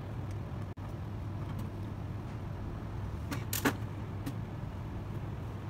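Steady low hum of clean-room air handling, with a few small sharp clicks about three and a half seconds in as a screwdriver works the screw that fixes a hard drive's head assembly.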